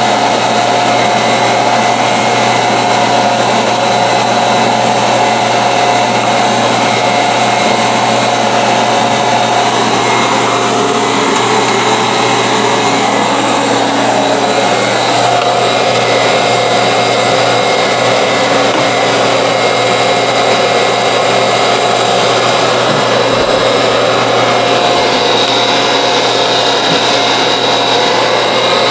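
Vacuum cleaner running steadily at full power, a loud motor whine that holds level throughout, its tone wavering for a few seconds about halfway.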